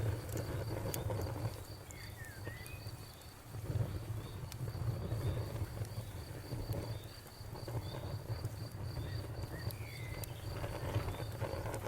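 Campfire burning with a low rumble that swells and dips and scattered sharp crackles and pops, while a cricket chirps in a steady, evenly repeated high pulse in the background. Two short sliding chirps come in, about two seconds in and again near the end.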